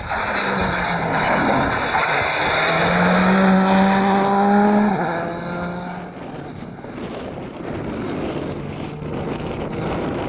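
Rally car going past at high revs, the engine note swelling loud and holding steady, then dropping in pitch about five seconds in as the sound fades away.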